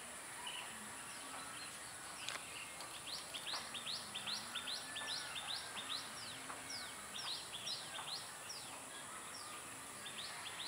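A bird calling in a rapid series of short, sharp chirps, each a quick slide in pitch, at about two to three a second, thickest through the middle and thinning out near the end, over a steady high-pitched hiss.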